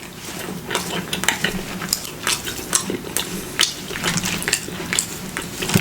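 Chewing food close to the microphone, with many irregular wet clicks and smacks of the mouth.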